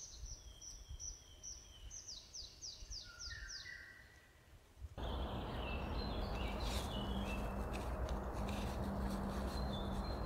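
Songbird singing in woodland: a quick series of high falling whistles, a few per second, then a lower phrase. About halfway in, a steady rushing noise with a low hum starts suddenly and stays louder than the birdsong, which carries on above it with a few faint clicks.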